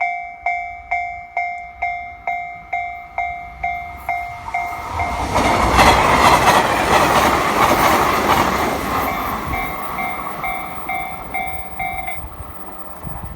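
A Japanese level-crossing warning bell dinging about twice a second while a train passes. The train's noise swells from about five seconds in, with wheel clicks, and fades out. The bell stops near the end.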